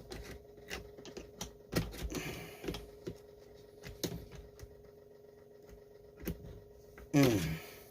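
Scattered light clicks and taps of hands fitting a small part back onto a Stihl 026 chainsaw, over a faint steady hum. A short falling-pitch vocal sound comes near the end.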